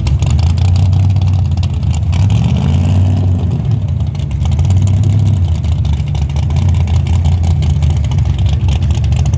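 Drag-race car engines, a Chevrolet Vega and a mini pickup, idling loudly with a rough, uneven beat while staged at the start line. The pitch rises briefly a couple of times as the throttle is blipped.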